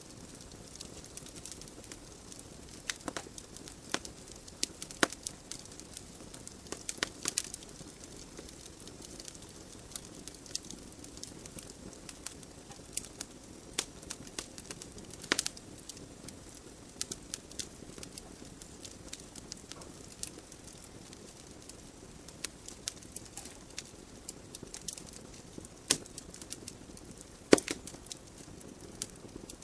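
Wood fire burning in a fireplace: a steady soft hiss of flames with irregular sharp crackles and pops from the burning logs, a few of them much louder, the strongest near the end.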